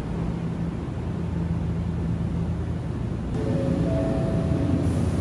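Steady low hum of an electric commuter train car, heard from inside the car while it stands at a station. About three seconds in, a few short steady tones join the hum, and a high hiss comes in near the end.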